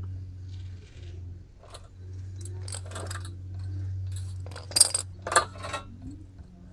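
Light metallic clinks and taps of a feeler gauge and hand tools working at the rocker arm while the valve lash is being set, with two sharper clicks about five seconds in. A steady low hum runs underneath.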